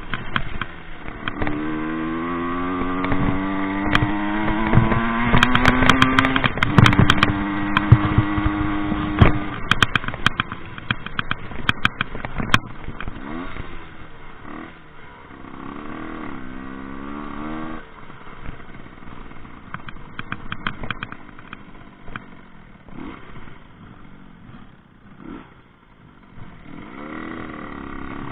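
Rieju MRT 50 two-stroke engine revving hard under riding: the pitch climbs steadily, steps at a gear change and falls off, then climbs again a few times as the throttle is worked. Scattered knocks and clatter run through it.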